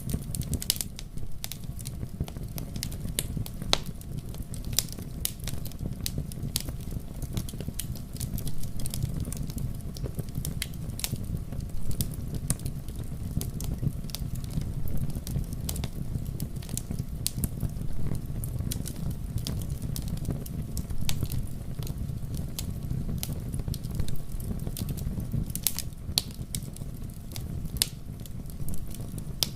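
Forest fire burning, crackling with irregular sharp pops over a steady low rumble.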